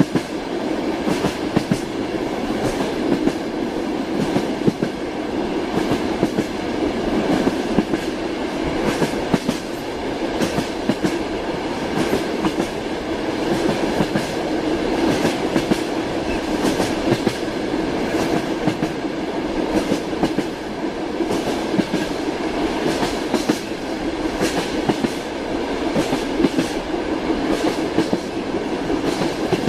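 Train running steadily on the rails, its wheels clattering over the rail joints in a continuous click-and-rumble.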